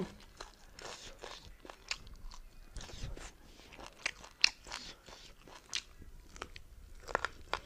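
A person chewing and biting into beef and rice eaten by hand, with irregular short smacks and clicks of the mouth, the sharpest about four and a half seconds in.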